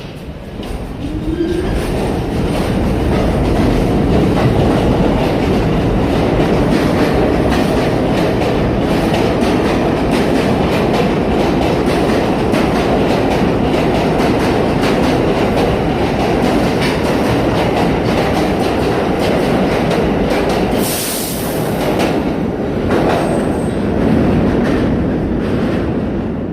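New York City subway train running through the underground station, its wheels clattering steadily over the rail joints. The sound builds over the first few seconds, holds loud and even, and a brief high hiss cuts in about 21 seconds in.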